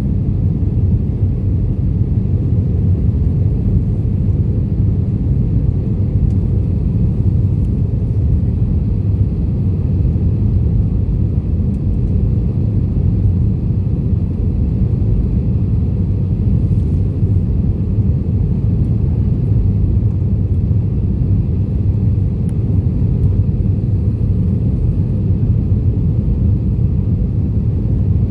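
Airbus A320 making a steady low rumble that does not change in pitch or level.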